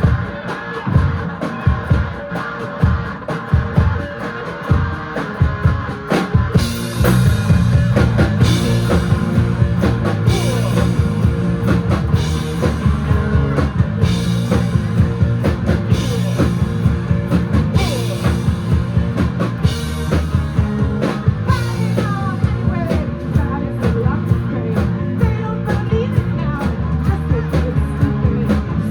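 Live rock band playing a song: a beat of drum hits opens it, and about six seconds in the full band with guitars and cymbals comes in and plays on at a steady loud level.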